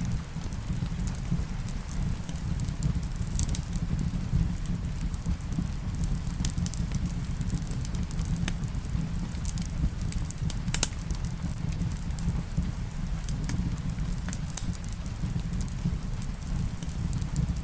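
Wood fire in a fireplace crackling, with scattered sharp pops over a steady low rumble, mixed with the steady patter of rain.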